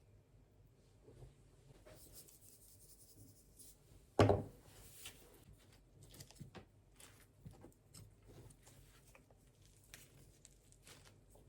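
Light handling sounds: scattered rustling and small clicks, with one louder knock about four seconds in.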